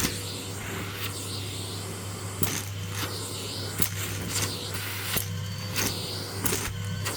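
Henry canister vacuum cleaner running steadily while pistachio shells are sucked up and click and rattle through the hose, a sharp click every half second to second.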